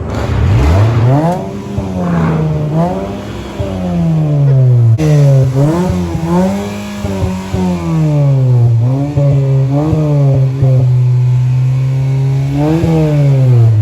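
Car engine revved up and down repeatedly in a series of throttle blips, dropping back toward idle near the end, to show how the exhaust sounds.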